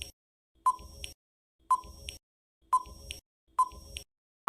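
Countdown timer sound effect: a short, sharp beep-like tick about once a second, four times.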